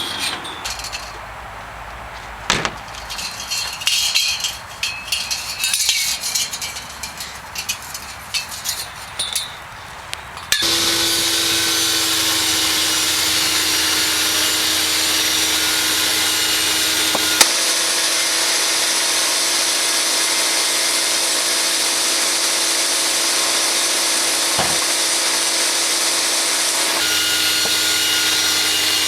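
Irregular clinking and knocking for about ten seconds, then a Pezzolato mobile sawmill cutting cedar sets in abruptly: a loud, steady running saw with a held whine.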